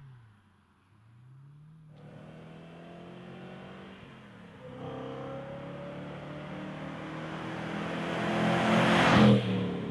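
BMW E92 M3's 4.0-litre V8 through a DRB Motorsports stainless-steel exhaust, accelerating toward and past: the engine note climbs steadily and grows louder, peaks as the car passes close near the end, then drops in pitch as it pulls away.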